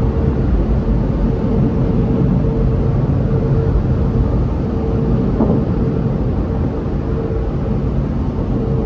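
Infiniti Q50's 3.7-litre V6 through a loud aftermarket exhaust with test pipes, heard from inside the cabin while cruising: a steady low exhaust drone over road rumble.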